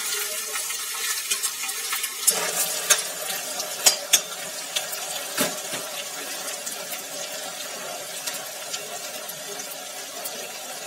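Chopped onion and curry leaves frying in very hot oil in an iron kadai: a steady sizzle, with a metal spatula scraping and clinking against the pan as it stirs, a few sharp knocks between about two and five seconds in.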